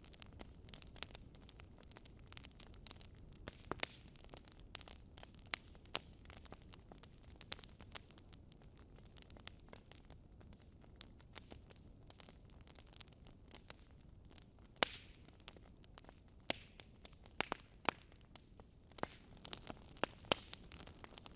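Wood fire crackling in a fireplace: scattered sharp pops and snaps over a low steady rumble of the flames, with a cluster of louder pops in the last few seconds.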